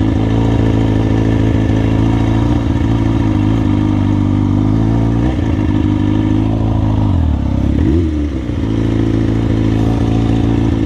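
Motorcycle engine running steadily under way; its pitch drops about seven seconds in as the bike slows, then climbs again.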